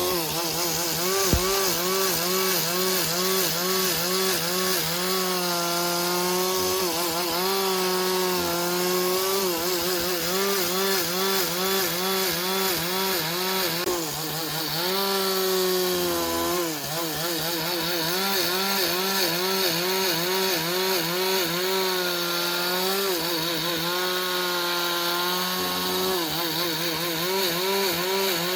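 Chainsaw cutting through wood, its engine note dipping and recovering about twice a second as the chain bites and frees, with a short knock about a second in.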